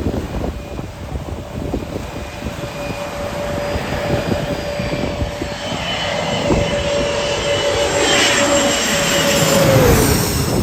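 Jet airliner passing low overhead: its engine whine grows steadily louder, then drops sharply in pitch as it goes by near the end.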